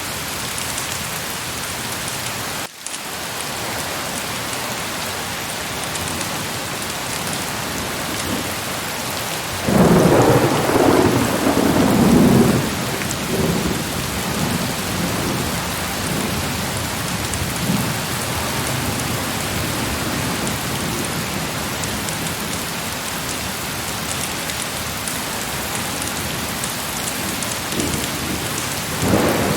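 Heavy, steady rain hitting surfaces, with a rumble of thunder rolling in about ten seconds in and lasting a few seconds, and a fainter rumble near the end. The sound drops out briefly about three seconds in.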